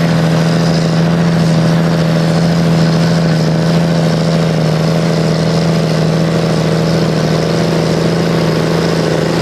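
Claas Xerion 3300 tractor's diesel engine running loud and steady at a constant pitch, under load pulling the sled.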